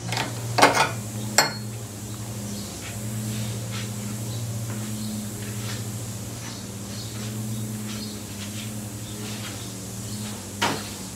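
The 1986 Yamaha Venture's 1300 cc V4 engine idling steadily on choke after a cold start. A couple of sharp metallic clinks come near the start and a louder one near the end.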